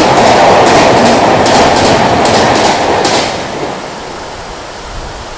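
Passenger train running through at speed: coaches rushing past, with wheelsets clacking over rail joints, mostly in pairs. The last coach clears about three seconds in, leaving the steady hiss of heavy rain.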